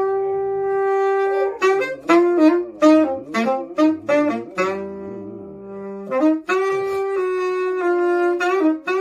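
Saxophone playing a slow jazz-style melody: long held notes with runs of quick short notes between them.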